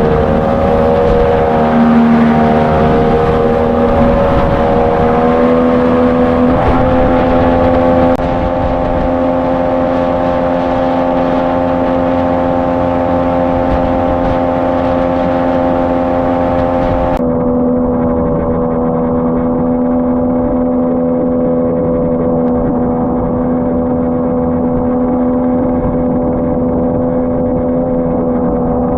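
Outboard jet motor of an inflatable jet boat running hard at high revs. Its pitch wavers and steps up slightly in the first few seconds, then holds steady. The tone changes abruptly twice, about 8 and 17 seconds in.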